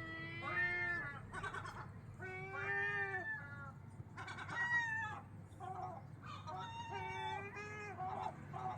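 Seagulls calling: a run of about seven drawn-out, mewing calls, each under a second long.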